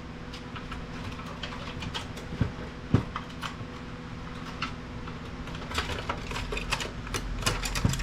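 Irregular light clicks and knocks of plastic and metal printer parts being handled and pried apart during disassembly, coming thicker near the end, over a steady low hum.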